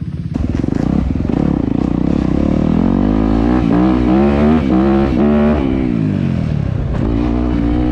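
Dirt bike engine revving hard, its pitch climbing and dropping back several times as the rider works the throttle. It eases off about six seconds in and picks up again near the end.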